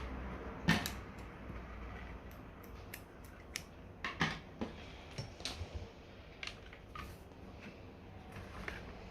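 Hand tools and parts being handled, giving irregular clicks and light knocks over a low background hum. The loudest knocks come near the start and about four seconds in.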